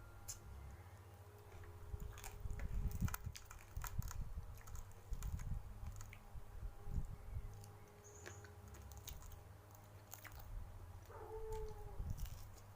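Close-up chewing and biting, with irregular wet clicks and crunches from a mouthful of raw papaya leaves and fried mujair fish. Near the end there is a brief pitched sound.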